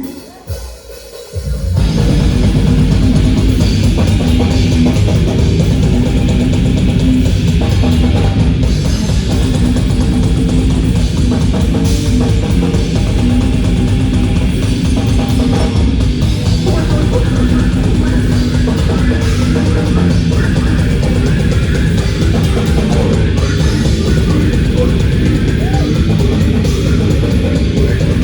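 Metal band playing live with distorted electric guitars, bass and drum kit. After a brief quieter lead-in, the full band crashes in at full volume about two seconds in and keeps going.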